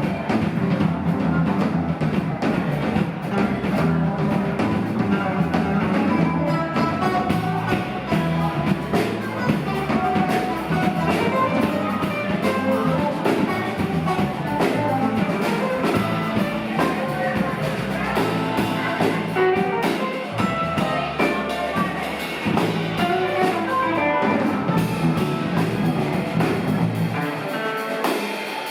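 Live rock band playing an instrumental passage: electric guitar lines over bass and a drum kit.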